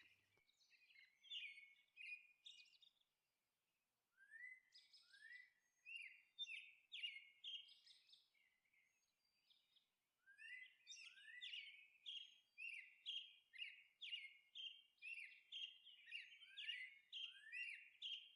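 Faint bird chirping: short rising calls in loose series, settling into a run of about two chirps a second after a short pause.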